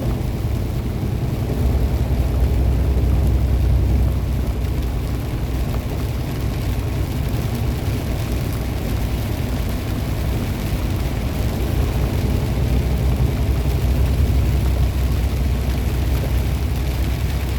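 Steady low rumble of a semi truck's engine and tyres at highway speed, heard from inside the cab. It swells a little about two seconds in and again later.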